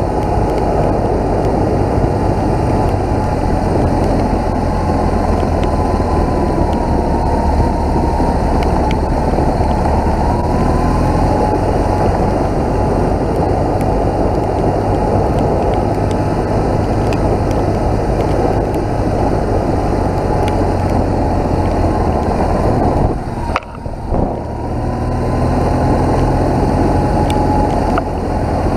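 BMW motorcycle engine running steadily under way, mixed with rushing wind noise. The sound dips briefly near the end, then picks up again.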